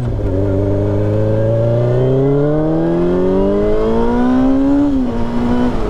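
Sport bike engine accelerating hard, its pitch climbing steadily for about five seconds, then dropping sharply near the end as the rider shifts up a gear.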